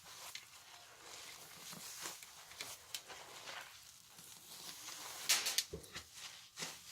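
Soap-soaked material being squeezed: wet squelching and crackling of lather in irregular bursts, loudest a little past the middle.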